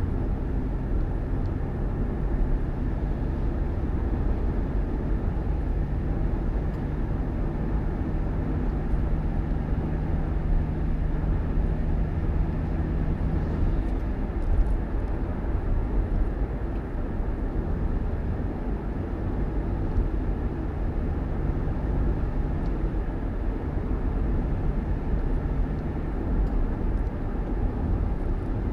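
Vehicle running: a steady low rumble of engine and road noise with a constant low hum that drops away for a few seconds midway.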